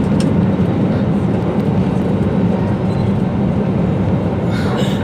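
Jet airliner cabin noise during takeoff: the engines at takeoff thrust give a steady, loud, low rumble inside the cabin.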